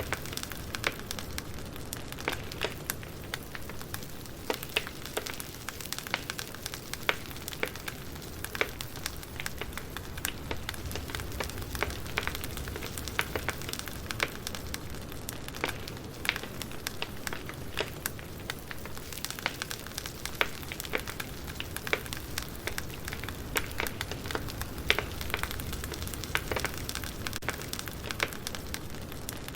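Wood fire crackling: a steady low hiss with frequent sharp, irregular pops and snaps.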